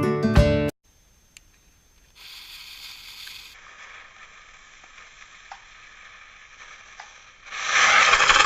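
Acoustic guitar music cuts off under a second in, followed by a faint hiss with a few small clicks. Near the end a loud steady hiss starts: a lit firework hissing.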